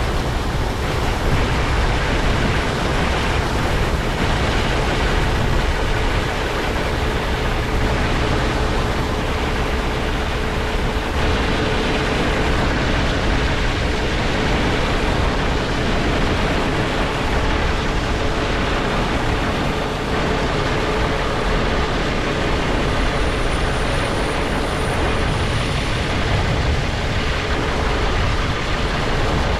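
Heavy farm machinery running steadily: a continuous loud mechanical noise with a faint steady hum.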